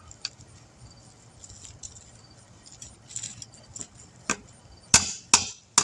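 Light metallic clinking and rattling of small metal parts being handled while a tire is balanced, ending in four sharp metallic taps in quick succession near the end.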